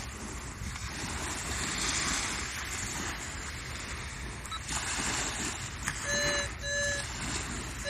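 Wind and surf noise on the microphone; about six seconds in, a metal detector gives two short, steady beeps of its target tone.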